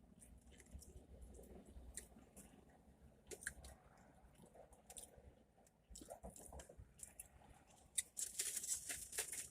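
Faint chewing and small clicks of someone eating, with a stretch of rustling near the end.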